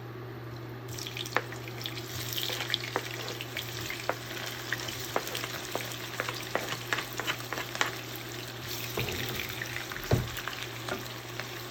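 Sliced onions sizzling and crackling in a kadai of hot oil, the hiss swelling about a second in as they hit the oil, with a low knock near the end.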